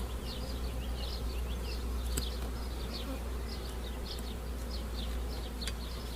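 Honey bees humming steadily from an open hive as its brood frames are handled. A rapid high chirping repeats in the background, and there are two sharp clicks, one about two seconds in and one near the end.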